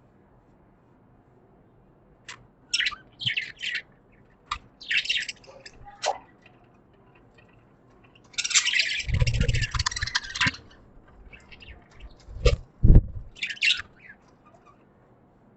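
Pet budgies (budgerigars) chirping in short, scattered bursts, with a longer run of busy chatter about halfway through. Two low thumps come just after it.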